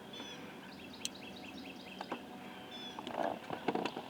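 Wild songbirds calling: a short high call repeated twice, with a quick run of chirps between. A few sharp clicks come in the second half.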